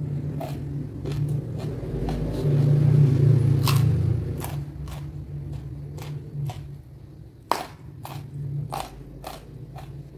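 Close-miked chewing of crunchy raw food: sharp crunch clicks about twice a second over a low mouth rumble that swells around the middle.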